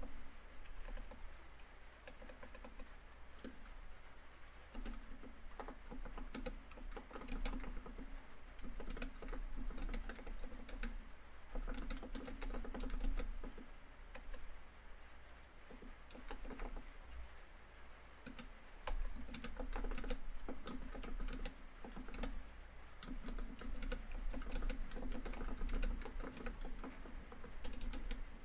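Typing on a laptop keyboard: rapid keystrokes in bursts with short pauses, over steady rain on a tin roof.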